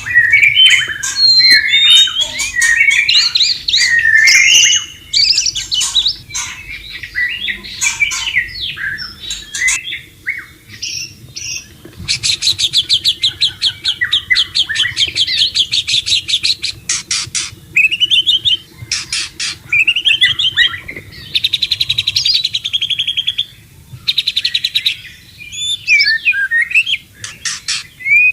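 White-rumped shama singing a varied song of loud whistled phrases. Twice, from about twelve seconds in and again around twenty-one seconds, it breaks into fast rattling runs of rapidly repeated notes.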